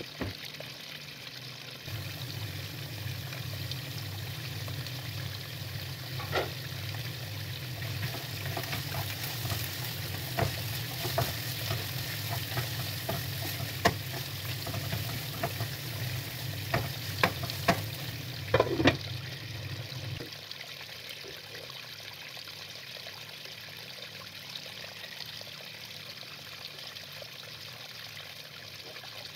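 Diced potatoes sizzling in hot oil in a nonstick frying pan, with a spatula knocking and scraping against the pan now and then as they are stirred. The sizzle drops away after about twenty seconds, leaving a quieter steady hiss.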